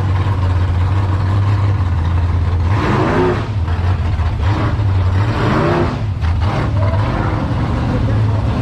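A car engine running with a steady low rumble, its pitch rising and falling twice, about three and five-and-a-half seconds in.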